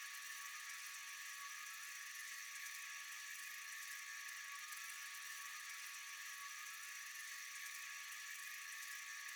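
Steady night chorus of insects: a faint, even, high-pitched buzz with a few constant tones in it, not changing.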